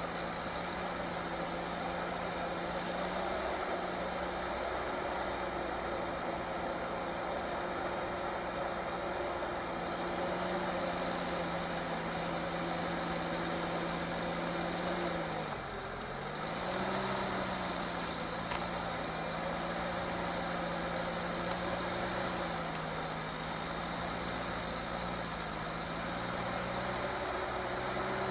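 Heavy vehicle engine running steadily under a broad mechanical noise, its pitch sagging briefly about halfway through and then climbing back.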